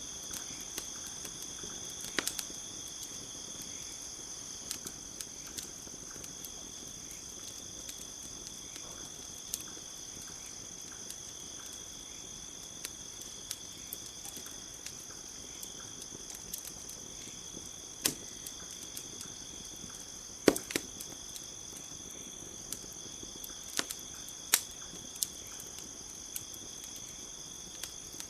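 Campfire crackling with scattered sharp pops, the loudest about two-thirds of the way in, over a steady high chirring of crickets.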